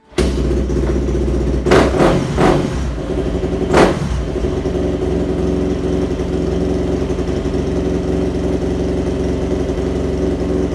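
2002 Yamaha WR426's single-cylinder four-stroke engine, with a freshly rebuilt top end and carburettor and newly set timing, running, with four short throttle blips in the first four seconds before it settles to a steady idle.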